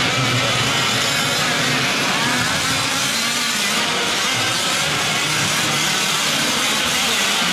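Several 1/5-scale gas-powered two-stroke RC truck engines racing together, their pitches overlapping and rising and falling as they rev up and back off.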